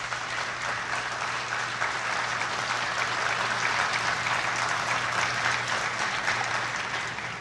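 Audience applauding in a large assembly hall: a steady wash of clapping that builds at the start and tails off near the end.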